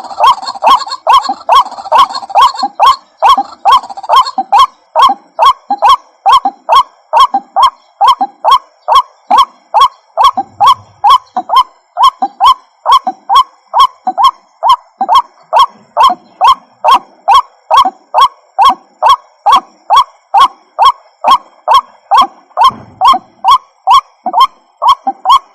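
White-breasted waterhen (ruak-ruak) calling: a steady, unbroken series of loud, harsh honking notes, about two to three a second.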